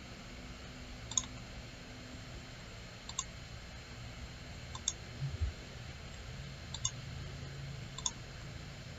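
Computer mouse clicking, five single clicks spaced a second or two apart, over a faint steady room hiss and hum.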